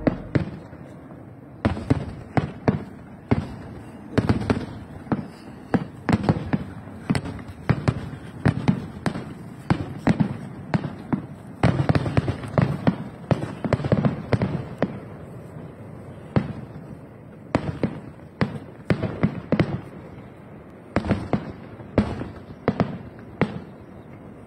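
Aerial firework shells bursting in an irregular string of sharp bangs, one to several a second, with a few brief lulls.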